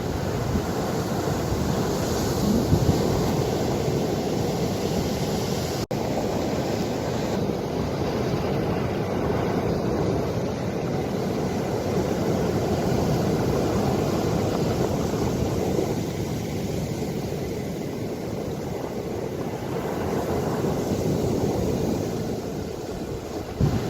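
Ocean waves washing in a steady continuous rush that swells and eases slowly, with wind rumbling on the microphone. The sound drops out for an instant about six seconds in.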